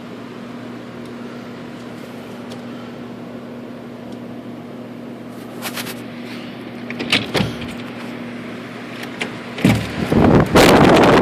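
A steady low hum, then a few clicks and knocks, and from near the end loud blizzard wind buffeting the microphone.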